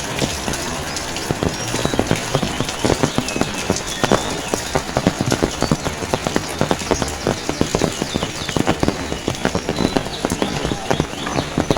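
Rain falling steadily, with a dense, irregular patter of drops striking a hard surface close by.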